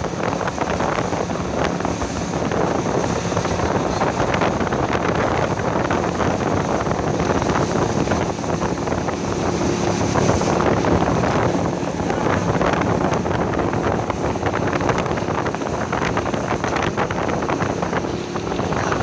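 A boat's motor running steadily under way, with heavy wind buffeting the microphone.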